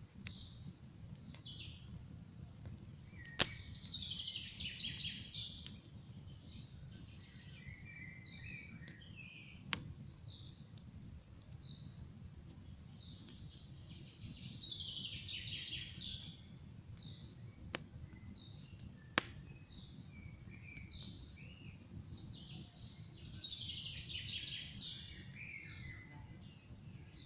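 A campfire crackling, with a few sharp pops, under forest birdsong. A songbird sings a falling phrase about two seconds long three times, roughly every ten seconds, with short chirps between.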